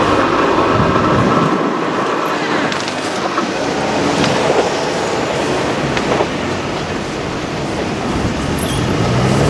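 Kintetsu Minami Osaka Line electric train passing over the level crossing: a steady loud rumble of wheels on rail, with a few sharp clicks.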